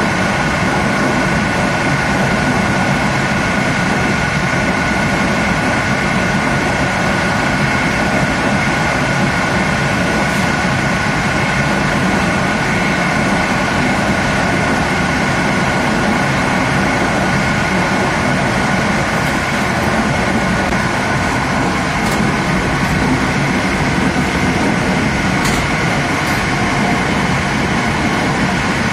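Steady running noise of a passenger train at speed, heard from its last coach: wheels rolling on the rails with a rush of air and a constant high-pitched whine.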